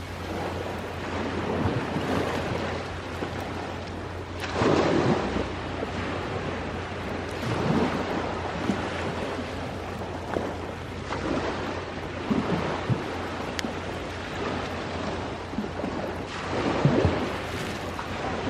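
Ocean waves washing in on the shore, swelling to a louder surge about five seconds in and again near the end. Scattered sharp pops and crackles from a campfire sound over the surf.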